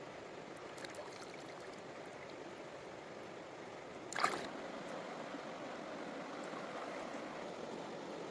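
Stream water running steadily, with a few faint clicks a second in and one short, sharp crack about four seconds in.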